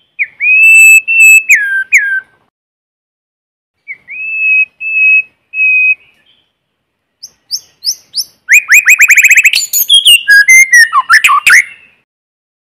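White-rumped shama singing: two phrases of clear, sustained whistled notes, the first dropping in pitch at its end, then, after a pause, a fast run of rising notes breaking into quick, varied trills.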